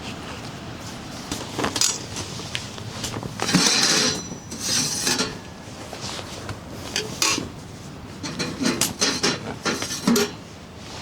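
Metal camp cookware and utensils being handled: irregular clinks, knocks and a couple of longer scrapes, over a steady hiss of rain.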